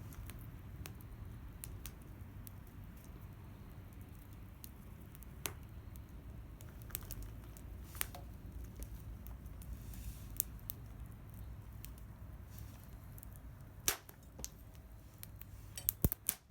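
Wood bonfire burning, with scattered sharp pops and crackles over a steady low rumble.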